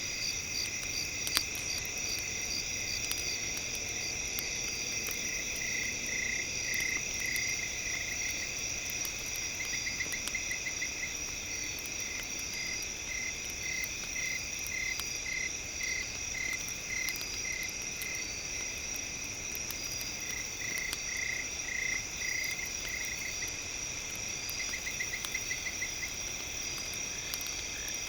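A steady chorus of night insects trilling, with bursts of rapid pulsed calls every few seconds. Faint scattered crackles of a campfire run under it, with one sharper pop about a second in.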